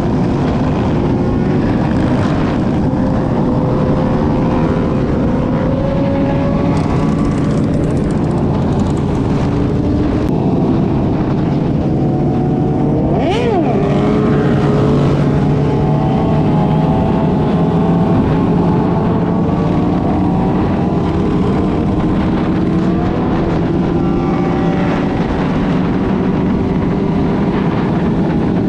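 Several motorcycle engines running together at road speed over a steady rush of noise, their engine notes drifting up and down slightly. About halfway through, one sound briefly rises and falls in pitch.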